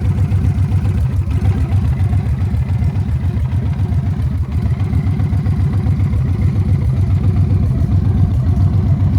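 Victory Hammer motorcycle's V-twin engine running steadily at idle, with a throbbing beat.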